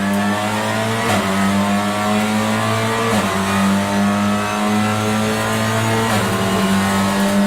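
Honda Civic Type R TCR touring car accelerating hard, its engine note climbing steadily and dropping sharply at each sequential upshift, about a second in, about three seconds in and again about six seconds in.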